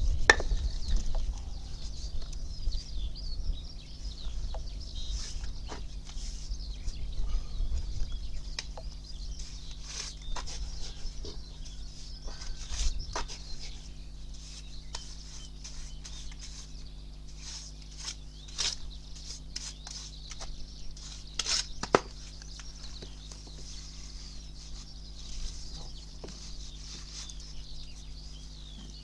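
Small birds chirping and twittering steadily, with scattered sharp clicks and knocks and a low rumble in the first few seconds.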